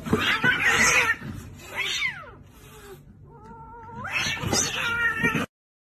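Two cats squabbling, giving several harsh, hissing cries, one of them falling in pitch. There is a short wavering meow about three seconds in. The sound cuts off abruptly near the end.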